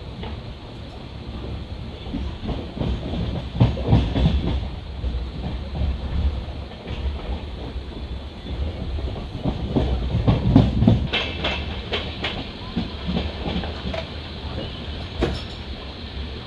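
Passenger coach running at speed on the track: a steady low rumble of wheels on rail, with bursts of clickety-clack as the wheels cross rail joints, strongest about four and ten seconds in.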